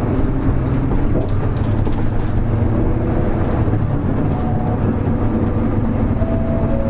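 Hino Rainbow HR (KL-HR1JNEE) city bus under way, its diesel engine and road noise heard from inside the passenger cabin as a steady low rumble.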